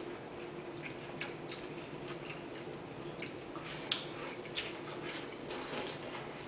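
Faint wet chewing, slurping and lip smacks of people eating watermelon chunks fast, heard as scattered short clicks, the sharpest about four seconds in. A low steady hum runs underneath.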